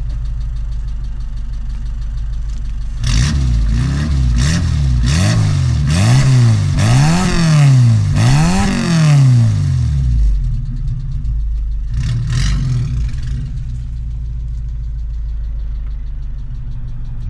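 Suzuki Samurai engine heard through its new custom exhaust: it idles steadily, then is revved in about six quick rising-and-falling blips, gets a couple more short blips, and settles back to idle.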